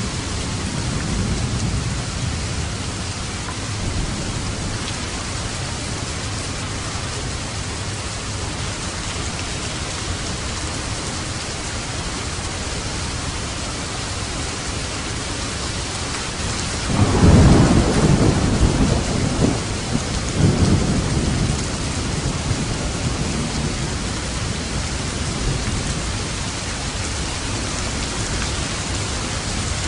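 Steady heavy rain with a roll of thunder: a low rumble swells suddenly about halfway through, then rolls on in a few weaker waves for several seconds before fading back into the rain.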